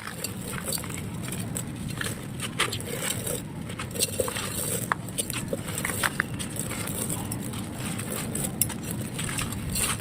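Dry, gritty clay being crushed and crumbled: continuous crunching with many small irregular crackles as grit and dust fall.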